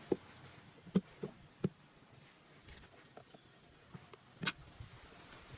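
A few sharp knocks and taps at irregular intervals, about five in all, the loudest coming near the end.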